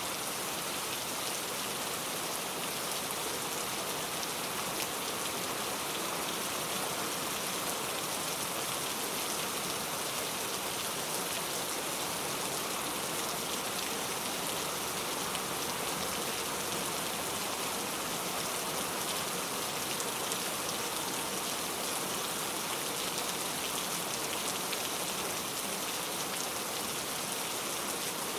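Heavy rain falling steadily, a dense even hiss of drops pattering on surfaces with no change in strength.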